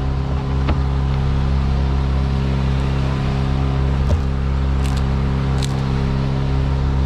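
Engine of a machine running at a steady speed, with a sharp knock about two thirds of a second in and another just after four seconds.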